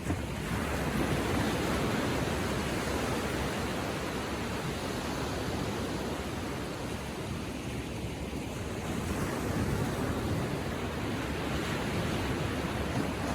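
Gentle ocean surf washing onto a beach, a continuous hiss that swells and eases as small waves come in.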